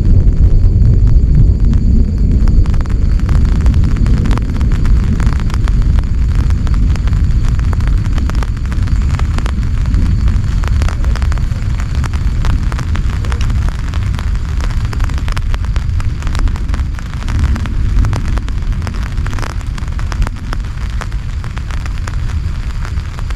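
Heavy rain pattering densely on a tent, a thick crackle of drops over a loud low rumble, easing a little near the end.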